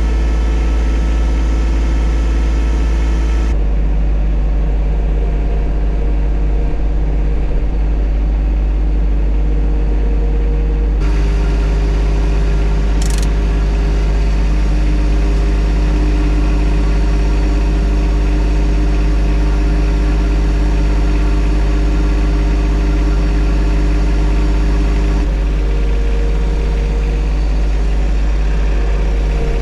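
John Deere 1025R compact tractor's three-cylinder diesel engine running steadily and loudly. Its note changes abruptly about a third of the way in, again near the middle, and again near the end.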